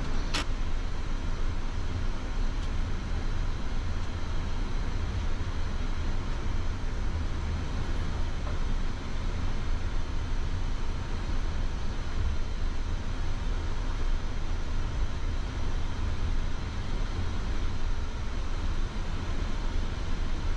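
Steady flight-deck noise of a Boeing 787-9 taxiing with its engines at idle: a low rumble under an even hiss. A single sharp click comes about half a second in.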